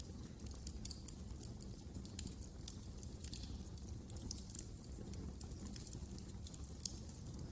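Wood fire crackling: many small, irregular sharp pops and snaps over a steady low rumble of burning.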